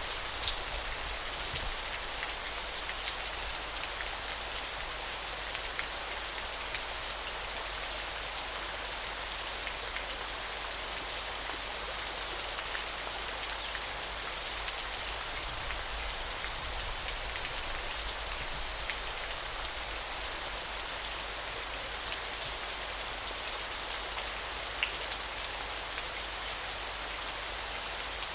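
Steady hiss of running water with faint scattered drips and ticks. Over it an insect trills at a very high pitch in bursts of a second or two, stopping about halfway through.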